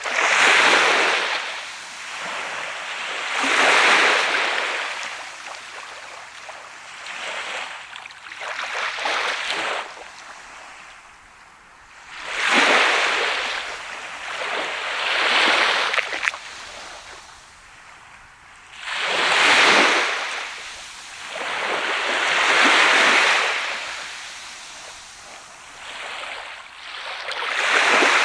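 Sea waves breaking and washing up a sandy beach, a hissing surge every three or four seconds that swells and falls away, some surges louder than others.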